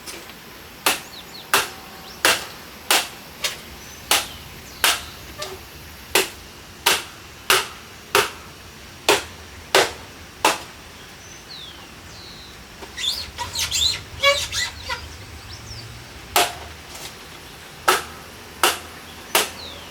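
A steady series of sharp knocks, about three every two seconds, with a quicker clatter of knocks a little past the middle; faint bird chirps behind.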